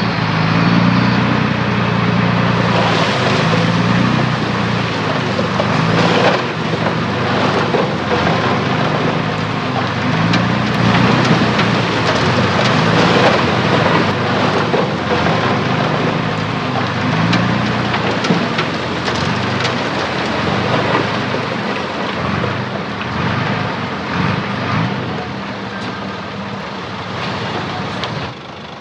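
Heavy diesel earthmoving machinery at work: a steady low engine hum under a loud rushing, rattling clatter of soil and metal. The noise drops off sharply near the end.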